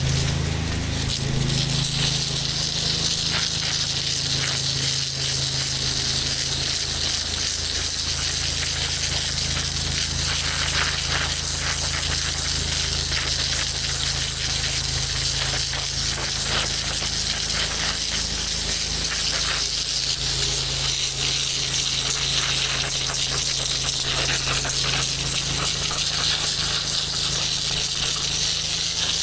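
Gas-engine pressure washer running steadily under a continuous hiss of high-pressure water spray, with a scatter of ticks and rattles.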